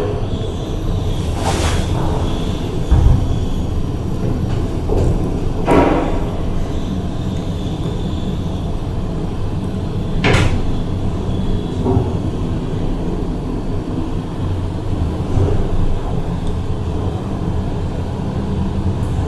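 A KONE MiniSpace traction elevator running, with a steady low rumble. Three sharp clunks or knocks come through it, about 1.5, 6 and 10 seconds in.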